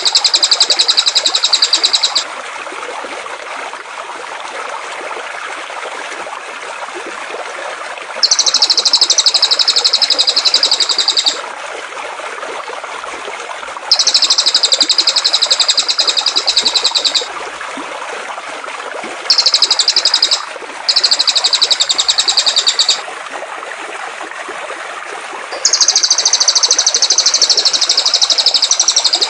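A songbird singing in repeated bouts of rapid, high trilling, each one to three seconds long with pauses between, over the steady rush of flowing water.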